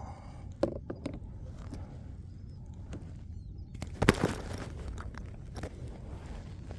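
A few short knocks and clicks from handling a freshly caught lizardfish aboard a kayak, the sharpest and loudest about four seconds in, over a low steady rumble.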